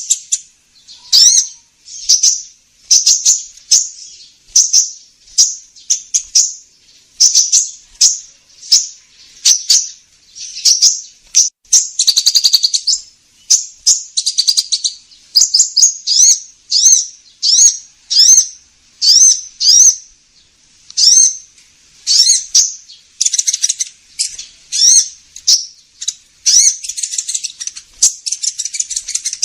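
Sunbird ('kolibri ninja') lure call: short, sharp, high chirping phrases repeated about once a second. It is a recording played to draw in sunbirds.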